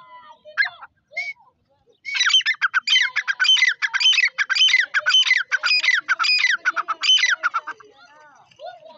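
Grey francolin calling: a loud, rapid series of shrill repeated notes that starts about two seconds in and stops about a second and a half before the end, with only faint small sounds around it.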